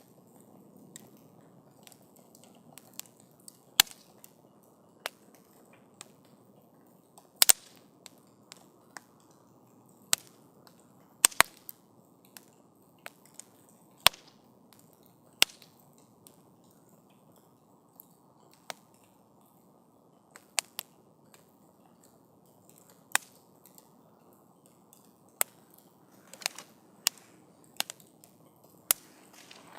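Wood campfire crackling: sharp, irregular pops and snaps from the burning wood over a soft, steady low hiss of the flames.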